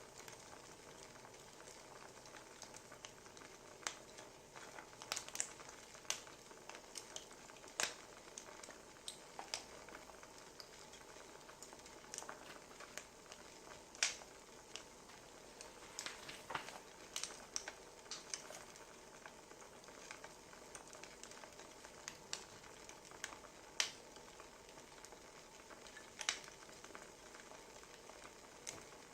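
Wood fire crackling: a soft steady hiss with irregular sharp pops and snaps, a few louder ones scattered through.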